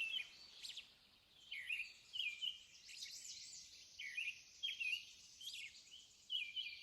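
Birdsong: short chirping notes with quick pitch slides, repeated about twice a second over a faint steady high hiss.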